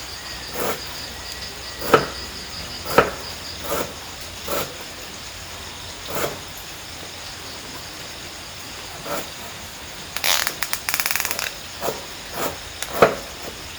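Crickets trilling steadily, with about a dozen irregular sharp knocks roughly a second apart and a quick rattling burst of clicks about ten seconds in.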